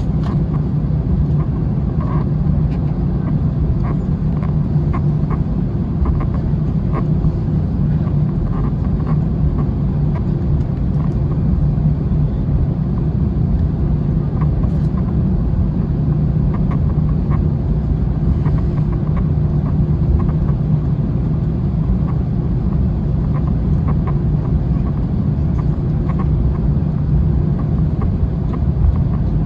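Steady cabin drone of an Airbus A321 with its jet engines running at a constant low setting, heard from inside the cabin, with faint intermittent rattles.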